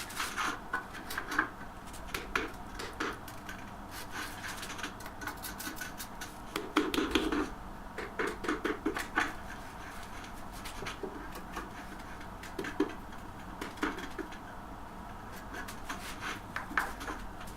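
Irregular clicks, light knocks and scraping of hard objects being handled, with a denser cluster of knocks about seven seconds in.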